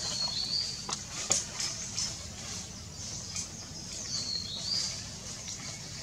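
A bird calling twice, a short high warbling whistle near the start and again about four seconds in, over a few sharp clicks and rustles among the branches.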